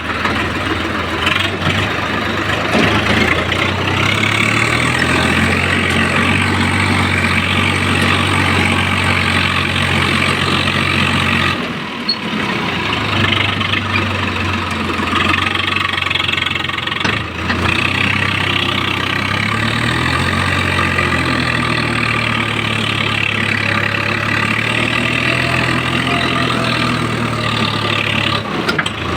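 Swaraj 855 FE tractor's diesel engine running, its speed rising and falling several times.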